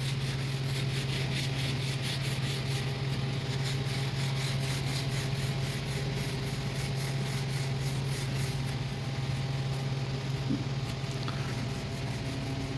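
Rhythmic back-and-forth scrubbing over greasy tractor metal, a quick run of short rasping strokes that stops a few seconds before the end, with a steady low hum underneath.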